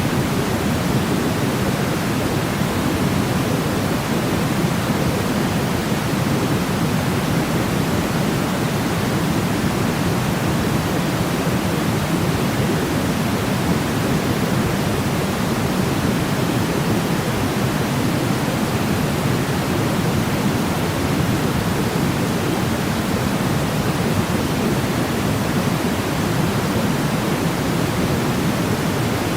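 Steady, unbroken noise for sleep, a deep hiss weighted towards the low end like pink or brown noise, with no changes.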